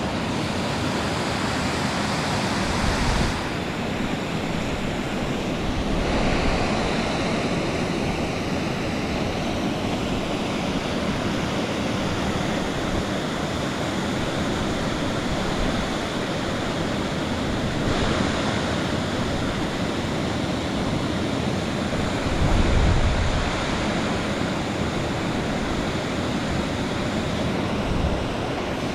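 Waterfall rushing steadily, with wind buffeting the microphone in a few low gusts, the strongest about two-thirds of the way through.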